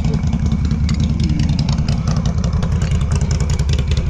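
ATV engine idling with a steady, rapid low chug.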